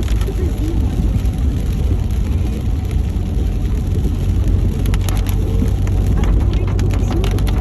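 Steady low road and engine rumble inside a car driving through a rainstorm, with clusters of sharp ticks about five seconds in and again near the end.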